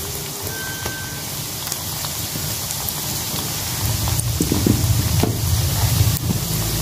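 Pieces of flour-and-tapioca dough frying in hot oil in a non-stick pan, just dropped in: a steady sizzle with scattered small crackles. A louder low hum joins in about halfway through and grows.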